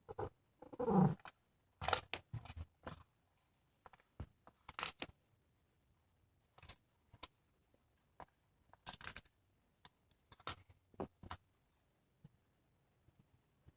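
Cat crunching and chewing on a squirrel carcass: irregular snapping bites and tearing, coming in clusters with short pauses. About a second in, the loudest sound is a short one that falls in pitch.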